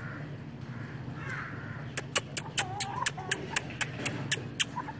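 Birds calling, with a quick run of about a dozen sharp clicks from about two seconds in until near the end.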